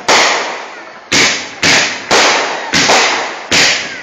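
Fireworks going off: about seven sharp bangs in quick, uneven succession, each one echoing away before the next.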